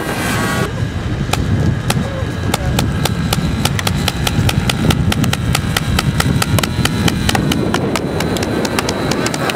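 Paintball gun firing a rapid, irregular string of shots, several a second, starting about a second in. Wind rumbles on the microphone, and a faint steady high whine from the model airplane's glow engine runs underneath.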